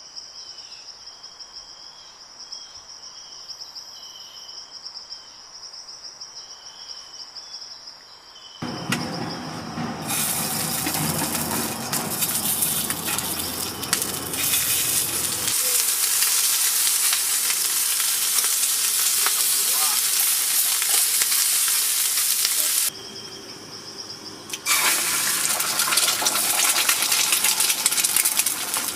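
Insects chirping steadily. About nine seconds in, a loud sizzle starts: a tomahawk steak searing over a campfire. The sizzle breaks off briefly near the end, then starts again.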